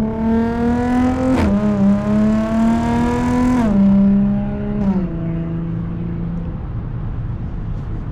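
Audi supercharged V6 with an AWE touring exhaust accelerating hard: the engine note climbs and drops sharply twice as it upshifts, shifts once more about five seconds in, then settles to a steady cruise.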